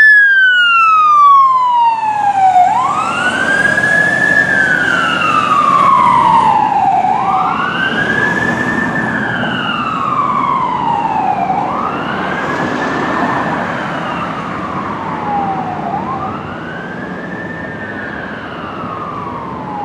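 Fire engine's siren on a slow wail, rising and falling in pitch about every four and a half seconds over the truck's engine and road noise. It fades steadily as the engine drives away.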